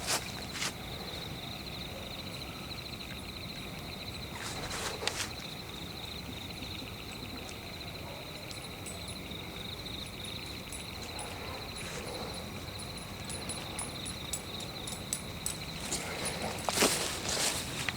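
Crickets chirping in a steady, pulsing trill. A few footsteps rustle through leaf litter about five seconds in and again near the end.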